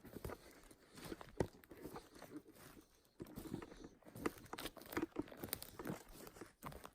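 Irregular crunching and crackling of leaf litter and twigs on a forest floor, as of someone stepping or moving through the undergrowth.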